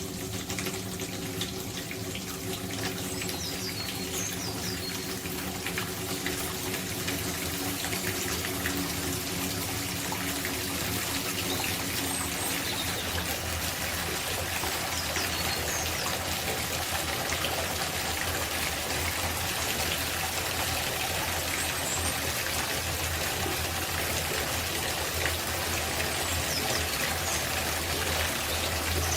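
Water running from a tap into an outdoor copper bathtub, a steady rushing splash that grows slightly louder, with a few low steady tones in the first dozen seconds that then fade. Birds chirp briefly now and then.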